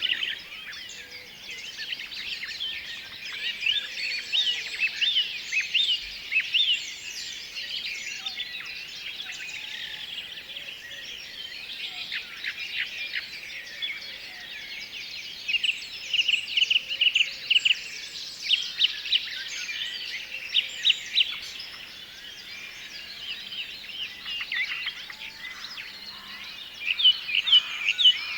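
A dense chorus of small songbirds singing and chirping over one another, with quick high notes and a run of rapid repeated notes about halfway through.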